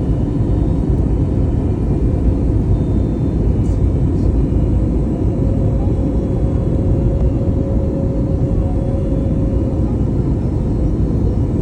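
Airbus A321neo engines and airflow in flight: a steady rumble with a faint steady hum over it.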